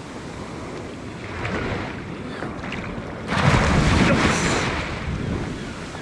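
Waves breaking on a beach, with wind buffeting the microphone; a wave surges in loudest from about halfway through.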